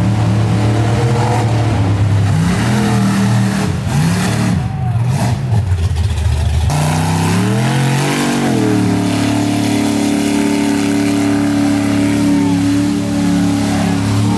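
Mud truck engine revving up and down, then climbing and held at high revs after an abrupt change about seven seconds in.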